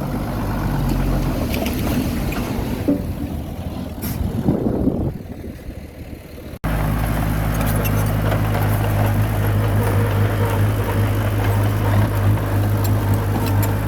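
Diesel engine of a small crawler bulldozer running, uneven under load at first and fading. About halfway it cuts off abruptly and comes back as a steady, even drone.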